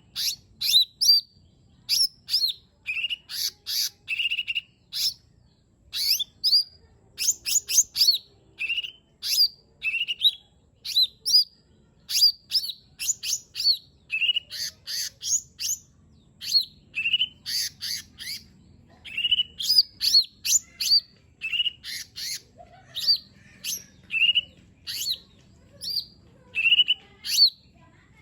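Cucak ijo mini (lesser green leafbird) singing a fast, sharp song: short sliding whistles mixed with clicking strokes, delivered in quick bursts with brief gaps.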